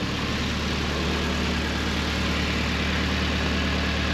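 Nissan 240SX engine idling steadily while warming up.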